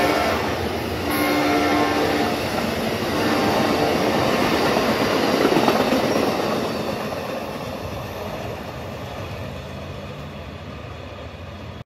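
A train passing: its horn sounds briefly about a second in, then the rumble and rattle of the train going by builds, peaks and fades away steadily. The sound cuts off abruptly at the end.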